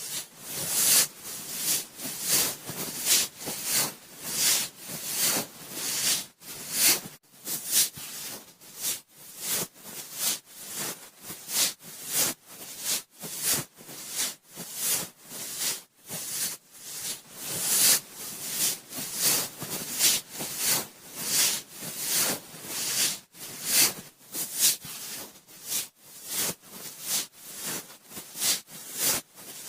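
Cotton swab swirled and rubbed inside a binaural microphone's ear, giving a steady run of scratchy, rustling strokes at about one to two a second.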